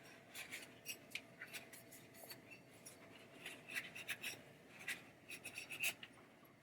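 Faint, scattered light clicks and short scraping and rubbing sounds of small mechanism parts being handled and worked on by hand.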